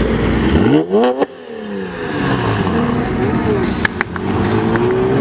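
A car engine revving up in a fast climbing pitch that breaks off suddenly about a second in, then engines running and changing pitch as cars pull away, with two sharp clicks a little before the end.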